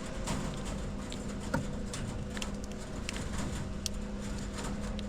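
Poultry-pen ambience: scattered light taps and clicks over a steady low hum, from the farm's chickens and other birds.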